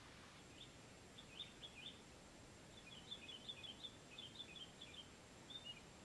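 Faint small-bird chirping: short high notes in quick clusters, repeated on and off over a low, steady outdoor background hiss.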